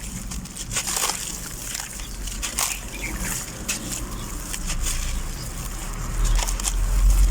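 Grain-coated sand-cement shapes crumbling in water, with scattered gritty crackles and wet sloshing. A low rumble builds near the end.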